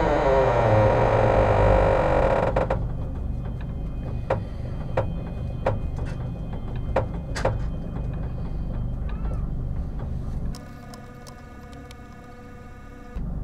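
Sleeper train carriage running at night: a low rumble with sharp knocks and rattles every second or so. It opens with a loud rushing noise that cuts off about three seconds in. Near the end the rumble gives way for a few seconds to a quieter steady hum with several held tones.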